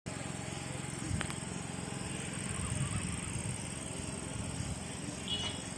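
Outdoor ambience: insects keep up a steady high-pitched trill over a low, uneven rumble. There is a sharp click about a second in and a short high chirp near the end.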